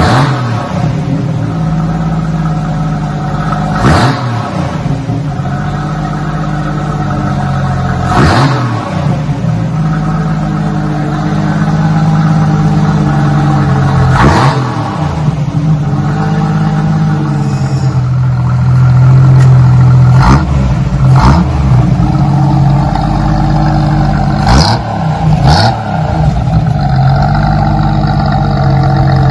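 1988 Jeep Wrangler's 4.2-litre inline six running through a Flowmaster Outlaw muffler and Magnaflow high-flow cat in a single side-exit exhaust. It idles steadily and is blipped about eight times with short throttle revs; the idle runs louder in the second half.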